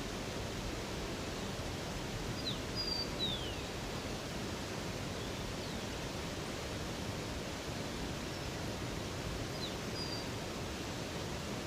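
Steady rushing of flowing water, with a few short, high bird chirps about two and a half seconds in and again near the end.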